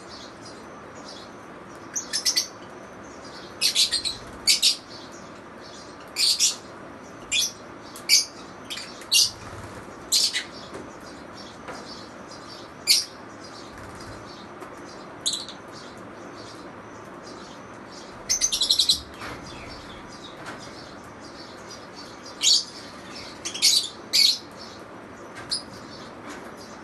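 Pet lovebirds chirping: short, sharp, high-pitched calls at irregular intervals, sometimes several in quick succession, over a faint steady background hiss.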